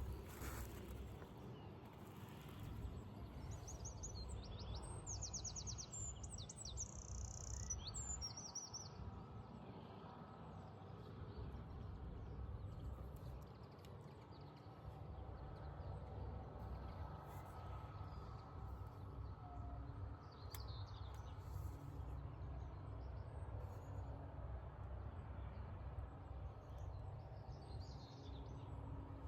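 A small songbird singing a rapid phrase of high, repeated notes a few seconds in, with a couple of fainter calls later, over a low steady rumble.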